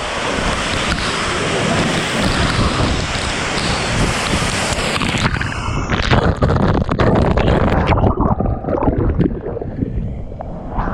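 Waterfall pouring, a loud steady rush of falling water close to the microphone. About halfway through the sound turns muffled and low, with buffeting and knocks on the microphone.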